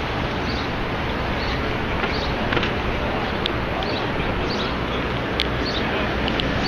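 Steady outdoor city din, mostly a dense traffic and crowd hum, with faint high chirps recurring every half second or so and a few sharp clicks in the second half.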